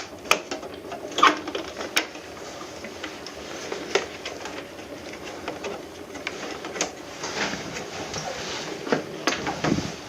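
Irregular plastic clicks and rattles, with a few sharper snaps, as the casing of an air conditioner's indoor unit is worked loose by hand; the panel is stiff to remove.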